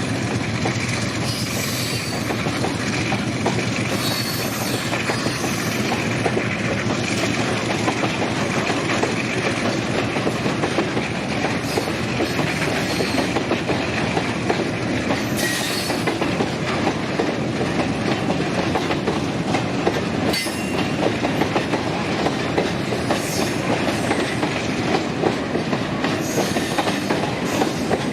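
Freight wagons of a long loaded train rolling past on jointed track: a steady rumble of wheels on rail with clickety-clack from the rail joints and brief wheel squeals now and then.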